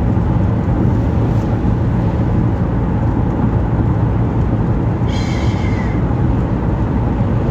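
Steady road and engine noise inside a moving car's cabin at highway speed, a constant low rumble. A brief higher-pitched sound comes in about five seconds in.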